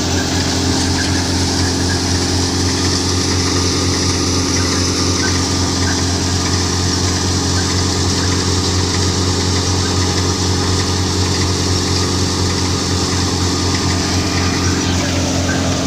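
Tractor-driven thresher machine running steadily: a loud, even engine hum with a constant machine rush over it.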